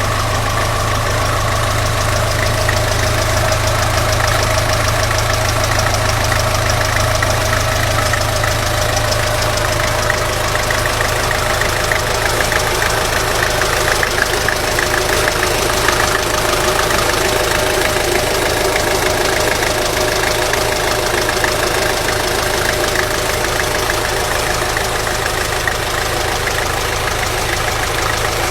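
Belarus tractor's turbocharged diesel engine running at a steady speed, with a clattering knock.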